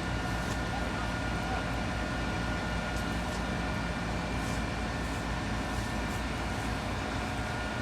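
Fishing boat engine running steadily: a low, even drone with a few faint steady whining tones above it.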